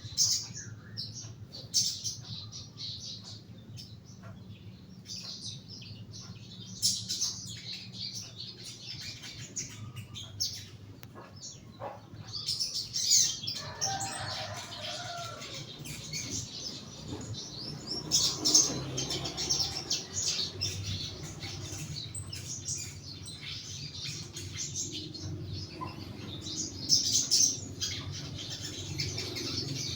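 Young caged sogon bird chirping in many short high calls, with wing flutters and sharp clicks as it moves about the cage; the calls come thickest about halfway through.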